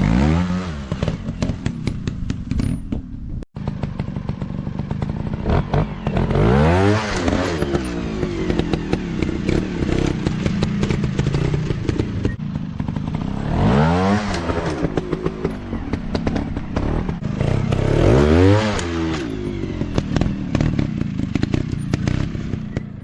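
Dirt bike engines being ridden off-road, revving up and falling back again and again as the throttle is worked, with clattering over rough ground. The sound cuts out very briefly about three and a half seconds in.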